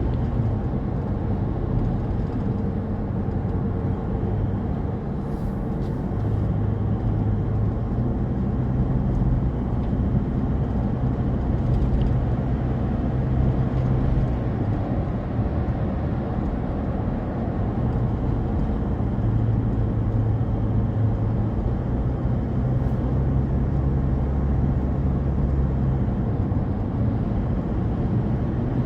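A car driving along a road: steady, low-pitched engine and tyre noise that goes on without a break.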